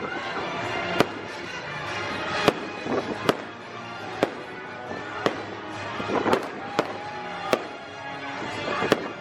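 Fireworks bursting over show music: sharp bangs roughly once a second, about nine in all, with a musical soundtrack playing underneath.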